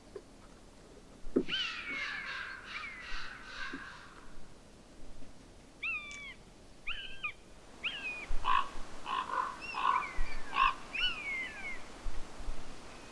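Red kite calling: repeated descending whistled, mewing calls in several bursts, with a run of short, harsher rasping calls in the second half.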